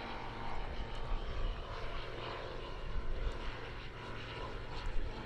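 A piston-engined propeller aircraft running steadily.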